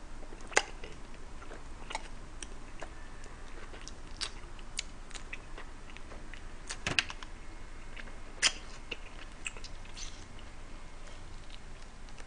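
A man chewing and eating, close to the microphone: wet mouth and chewing sounds with a few sharp clicks, the loudest about half a second in and twice more between seven and nine seconds.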